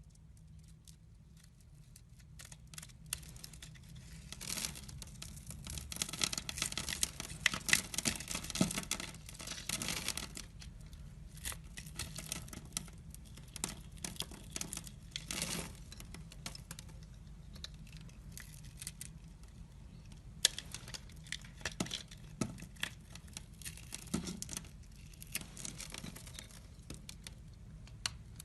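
A knife cutting and scraping into a bar of soap with crisp, crackling scrapes that are densest early on, then thinning to scattered sharp clicks and short scrapes as pieces crumble.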